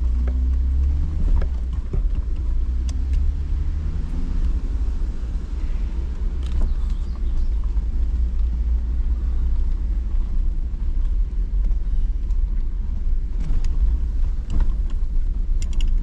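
Jeep driving slowly over a washed-out, rocky dirt road: the engine runs under a heavy low rumble, its pitch wavering in the first few seconds, with scattered knocks and rattles from the body and suspension over the rocks. The knocks come more often near the end.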